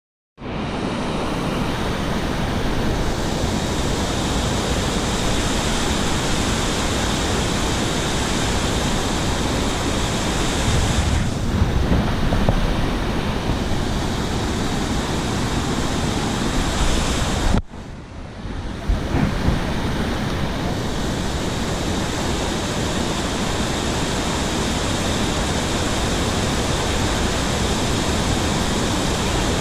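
Waterfall: a steady, loud rush of falling water. It cuts out abruptly for about a second some eighteen seconds in, then resumes.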